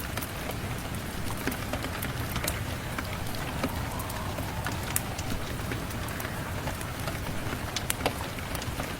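Steady rain with a wood fire crackling, small sharp pops scattered irregularly throughout.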